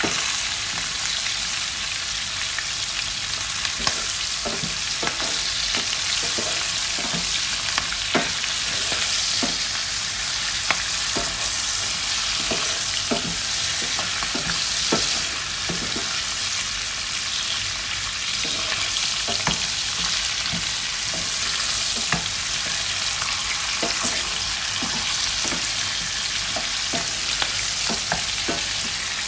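Shallots, garlic, chillies and belacan shrimp paste sizzling steadily in hot oil, being sautéed until they soften, while a wooden spatula stirs them with frequent light, irregular knocks and scrapes against the pan.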